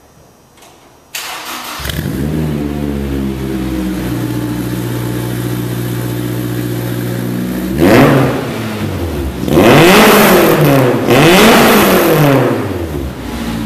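Honda S2000's four-cylinder engine starting about a second in through a custom race exhaust with a rear-mounted high-flow catalytic converter, settling to idle, then revved three times: a short blip, then two longer revs that climb and fall back to idle.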